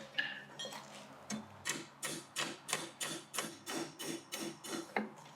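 Hand hammer striking a hot steel bar on an anvil: a few scattered blows, then a steady run of about three blows a second, each with a short metallic ring, as the bar's cross-section and taper are forged.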